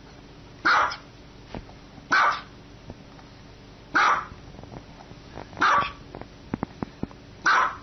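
Small white long-haired dog barking: five short, sharp, high-pitched barks, one every second and a half or so.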